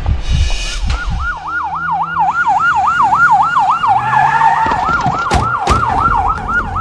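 Police car siren in a fast yelp, rising and falling about four times a second, starting about a second in.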